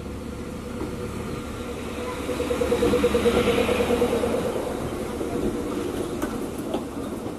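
Passenger multiple-unit train pulling out of a station. The leading power car passes close and is loudest about three seconds in, with a pulsing engine note. The coaches then roll past more quietly.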